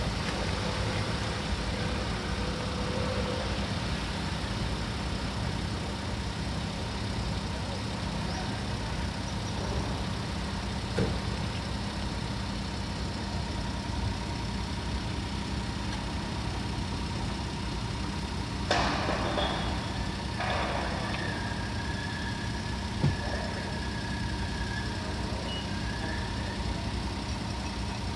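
Ferry's engine running steadily: a constant low hum with a steady higher tone over it. A few short knocks and a brief rushing noise come about two-thirds of the way through.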